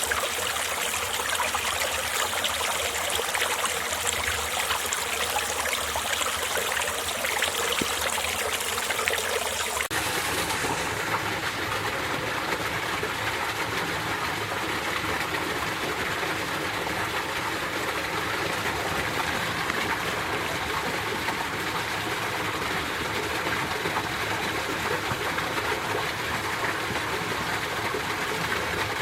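Mountain stream flowing over rocks with a steady rushing and trickling. About ten seconds in it changes abruptly to a deeper, fuller rush of water with less hiss.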